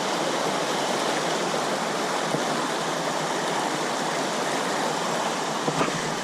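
Running creek water: a steady, even rush of flowing water.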